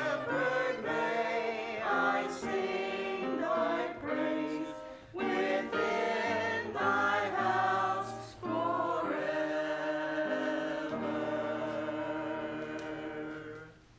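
Church choir singing in parts. It closes on one long held chord that dies away near the end.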